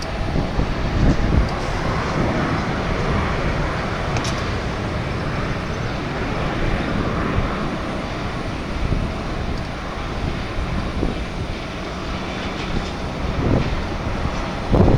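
Steady rumbling jet aircraft noise across an airport apron, with a few bumps of wind on the microphone about a second in and near the end.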